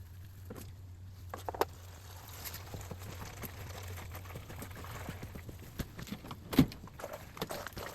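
Scattered clicks and knocks of hand tools at work on an F56 Mini's DCT transmission during an oil change, with one sharper knock about six and a half seconds in. A low steady hum runs under the first half.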